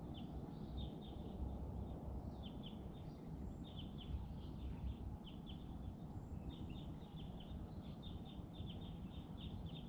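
Small birds chirping in quick runs of short, high chirps, over a steady low background rumble.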